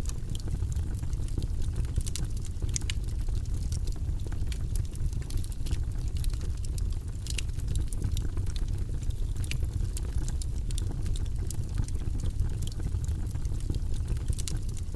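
Logs burning in a fireplace: a steady low rumble of the fire with frequent, irregular crackles and pops.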